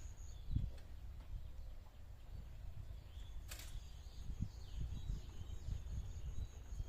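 Outdoor ambience: a low rumble with soft thumps, faint bird chirps, and one sharp click about three and a half seconds in.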